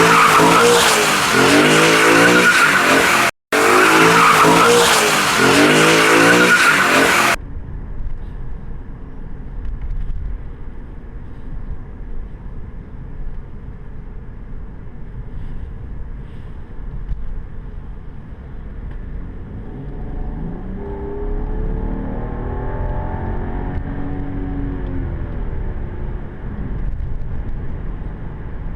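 A loud burst of car noise with tyre squeal, heard twice with a brief gap, cuts off abruptly about seven seconds in. Then comes the BMW 550i F10's twin-turbo V8 heard from inside the cabin over a steady low road rumble. Its pitch rises as it accelerates from about twenty seconds in.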